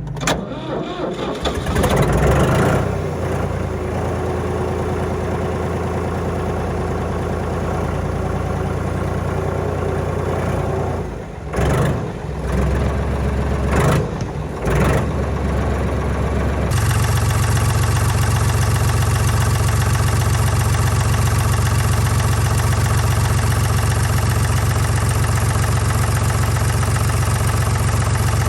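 Deutz D5206 tractor's air-cooled three-cylinder diesel engine running, with a few short changes in the middle; about two-thirds of the way through it steps up to a louder, steady run that holds.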